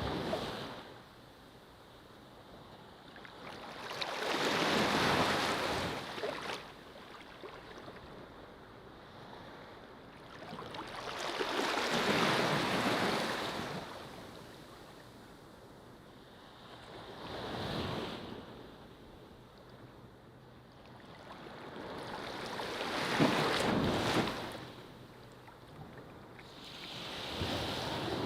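Ocean waves breaking and washing up a beach. Each wave swells and fades, arriving about every five to six seconds, with about four full surges.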